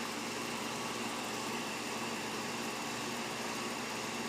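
2002 Lennox central air conditioner's outdoor condensing unit running steadily: the hum of its Copeland scroll compressor under the whoosh of the condenser fan, with a faint high steady tone.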